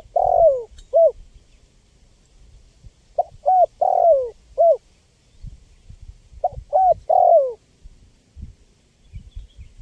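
Spotted dove (tekukur) singing its cooing phrase: a few short coos, then a longer falling coo. The phrase repeats about every three seconds, with one phrase ending just as the clip starts and two full phrases after it.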